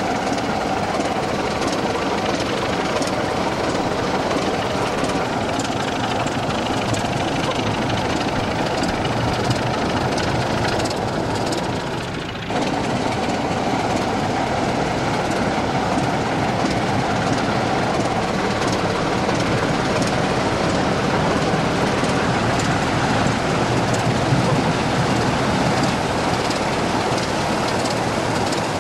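OO gauge model diesel locomotive running on track: a steady mechanical running noise from the motor and wheels, with scattered clicks.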